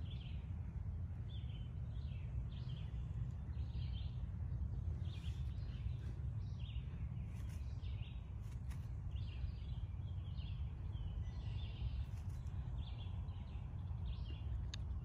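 Small birds chirping, short calls repeating about once or twice a second, over a steady low rumble.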